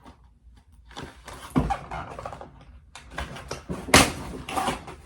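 Rustling and knocking as wall shelves and their packaging are handled and unwrapped, with a few sharp knocks, the loudest about four seconds in.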